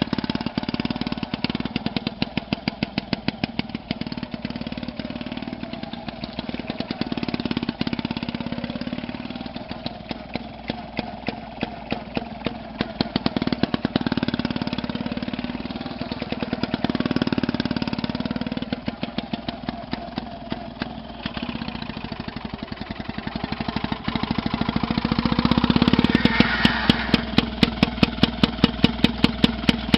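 Small engine running on a homemade mini tractor with a sharp, rapid ticking, picking up speed twice: briefly about 17 seconds in, and again from about 25 seconds in.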